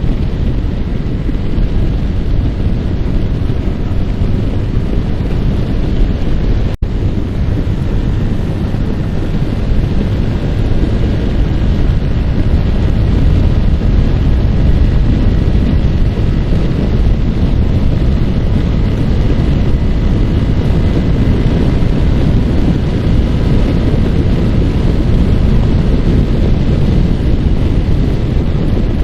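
Wind rushing over the microphone on a moving motorcycle, with the Yamaha R15's single-cylinder engine running underneath. The sound drops out for an instant about seven seconds in, and it grows a little louder after that.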